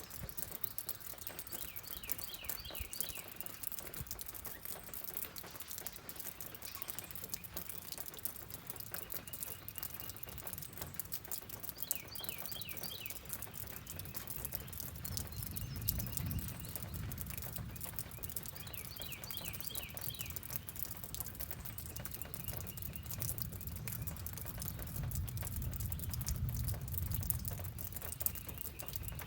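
Steady rain pattering, with a bird's short chirping phrase that comes three times, about eight seconds apart. A low rumble swells in about halfway through and carries on.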